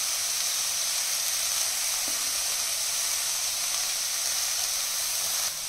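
Shredded vegetables sizzling as they sauté in a stainless steel kadhai, a steady frying hiss that drops slightly near the end.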